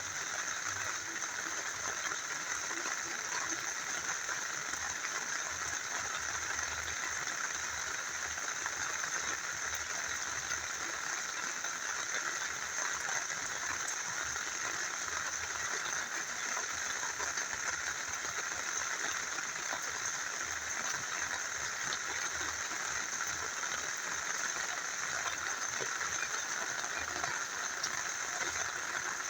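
Steady rain falling together with a small river flowing: an even, unbroken hiss of water with no separate events.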